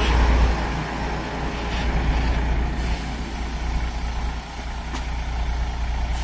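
Diesel train engine running steadily with a deep, continuous rumble.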